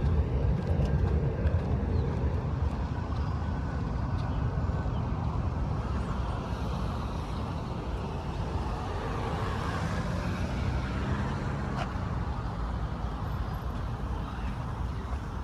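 Steady outdoor background noise: a low rumble under a broad hiss, with no distinct events.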